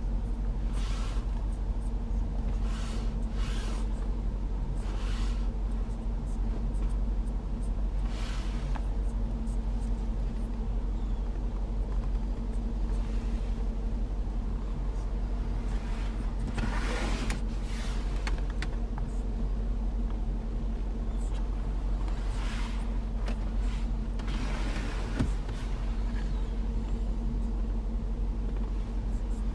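Range Rover Sport SVR's supercharged 5.0 V8 idling steadily, heard from inside the cabin as a low, even rumble with a constant hum. Short rustling noises come now and then over it.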